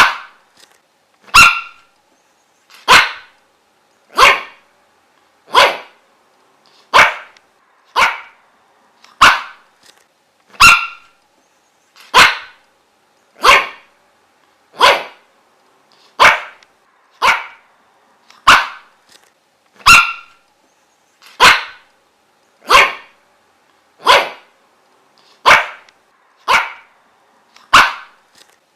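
A dog barking one sharp bark at a time, evenly repeated about once every second and a half.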